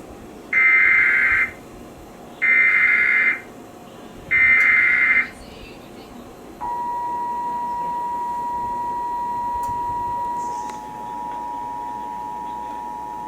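NOAA Weather Radio Emergency Alert System header: three short bursts of screechy data tones, each about a second long and two seconds apart, then a long steady attention tone that becomes two close notes about eleven seconds in. It is the start of a special marine warning alert.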